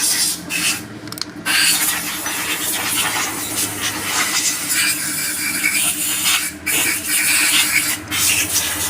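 Hissing spray in long stretches, cut off briefly several times, over a low steady hum.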